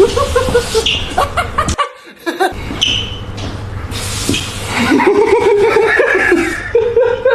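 Person laughing and chuckling, broken by a brief drop in sound about two seconds in.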